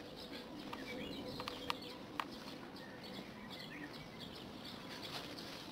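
Small birds chirping outdoors, with two or three sharp clicks about two seconds in.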